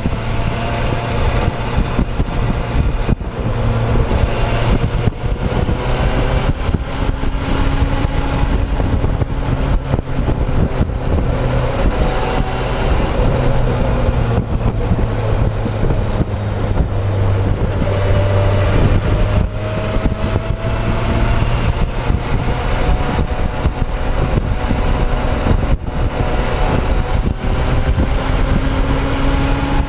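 Motorcycle engine running under way, heard close from the fuel tank, its note slowly rising several times. Wind noise on the microphone throughout.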